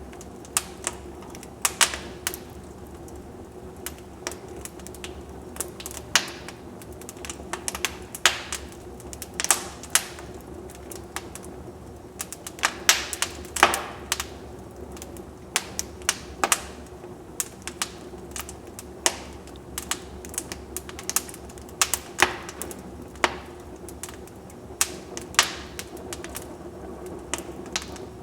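Wood fire burning in a fireplace, crackling: irregular sharp pops and snaps, some louder than others, over a steady background hiss.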